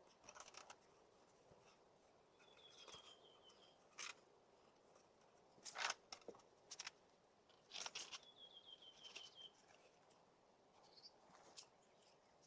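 Faint scattered rustles and sharp cracks, as of twigs and leaves being handled, and twice a bird's short trill, a quick run of high notes falling slightly in pitch.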